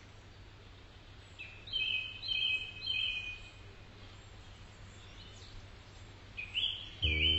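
A bird singing short, high repeated phrases in two bouts a few seconds apart, over a faint steady outdoor background hum. Music comes in right at the end.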